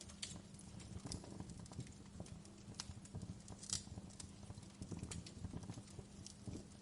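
Wood fire crackling: irregular small pops and snaps over a low rumble of burning, with a sharper snap a little before the middle.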